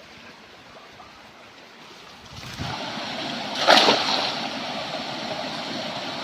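Running stream water, quiet at first and growing louder about two and a half seconds in, with a single splash about a second later.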